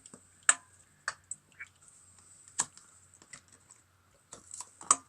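A utensil clicking and knocking against a bowl as food is stirred: a handful of sharp, separate clicks at uneven intervals.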